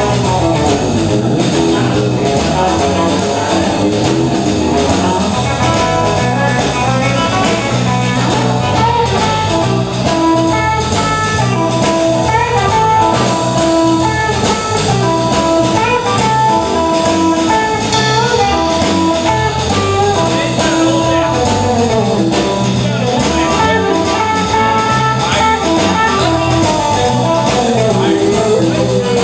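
Blues band playing an instrumental passage: guitar melody lines over a steady drum-kit beat.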